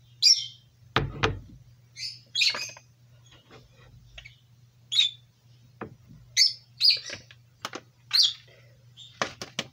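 A small bird chirping in short, high bursts every second or so. About a second in, a stainless steel pot knocks down onto a glass induction cooktop. A low steady hum runs underneath.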